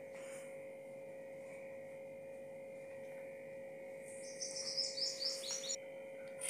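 A bird chirping in a quick run of high notes from about four seconds in, over a steady low hum.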